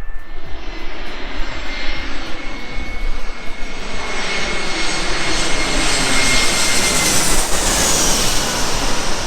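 Jet airliner passing low overhead on landing approach: its engine roar builds, with a steady high whine that drops in pitch as it goes over, loudest near the end.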